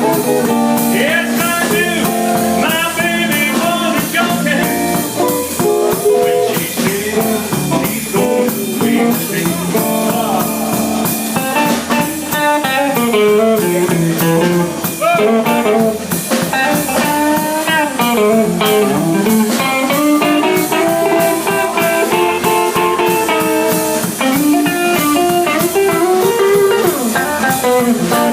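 Live band playing a blues number: guitar to the fore over a steady drum-kit beat.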